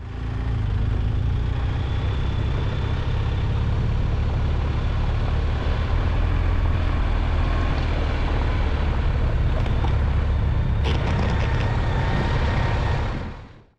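Motorcycle riding at road speed: a steady low engine drone under heavy wind rush, fading out near the end.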